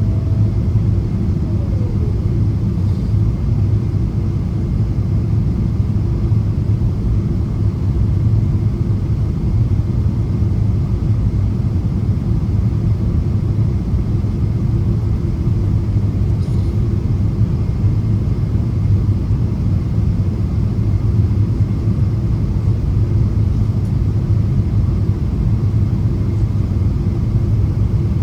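Steady low cabin drone of a Boeing 777-200ER in flight on approach: engine and airflow noise heard from a window seat, an even rumble with no change in level.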